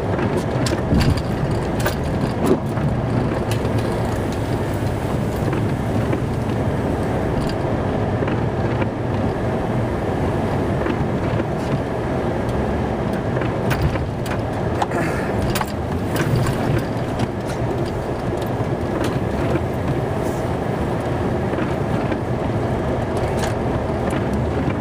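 Pickup plow truck driving, heard from inside the cab: a steady drone of engine and road noise, with scattered clicks and knocks.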